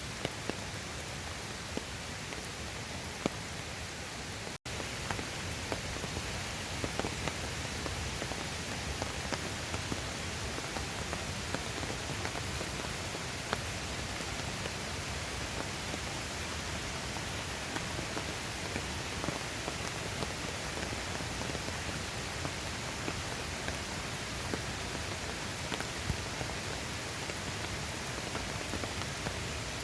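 Steady rain falling, with many separate drop ticks on a surface. There is a momentary break in the sound about four and a half seconds in.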